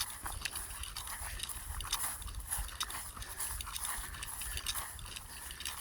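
Footsteps on dry ground outdoors: a series of irregular light crunches and clicks over a low rumble.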